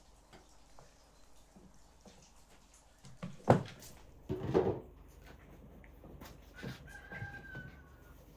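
Domestic chickens clucking in a farmyard, with one sharp knock about three and a half seconds in.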